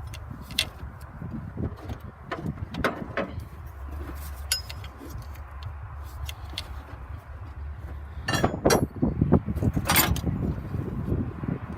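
Metal wrenches clinking against AC line fittings while the nuts are fitted and tightened: scattered light metallic clicks, which grow busier a few seconds before the end along with handling rumble.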